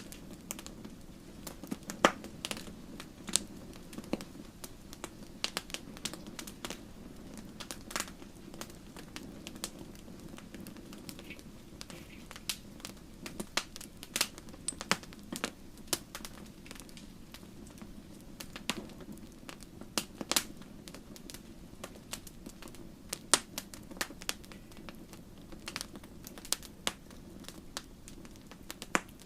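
Wood fire in a fireplace crackling, with irregular sharp pops and snaps scattered over a steady low hiss of the flames.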